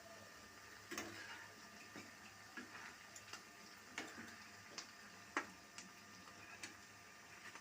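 Faint, irregular light clicks and taps of a kitchen utensil against a plate, roughly one every half second to a second, as fried bread paneer pockets are set out on a tissue-lined plate.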